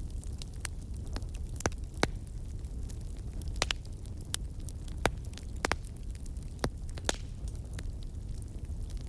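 Wood fire burning in a fireplace: a steady low rumble of the flames with irregular sharp crackles and pops, a handful of them louder.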